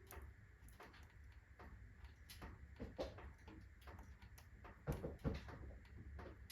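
Wood fire in a fireplace crackling: irregular faint cracks and pops from the burning logs, with two louder pops about five seconds in.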